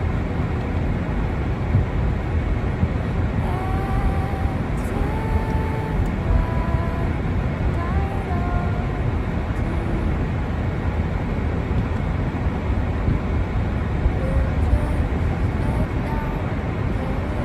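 Steady low rumble of storm wind buffeting the microphone, with faint distant voices about four to nine seconds in.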